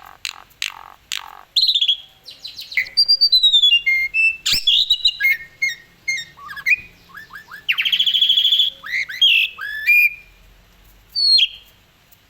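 Asian pied starling (jalak suren) singing a long, varied song of clear whistles, pitch glides, rasping squawks and quick chattering notes, with a sharp click about four and a half seconds in.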